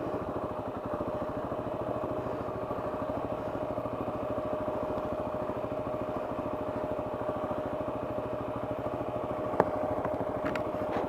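KTM 690's single-cylinder engine running at low, steady revs on the trail, with a thin steady whine over it. A single sharp click sounds about nine and a half seconds in.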